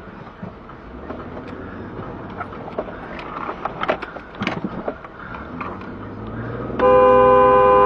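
Vehicle noise with scattered knocks and clatter, then near the end a loud horn blast of several pitches at once, held steady for about a second before cutting off.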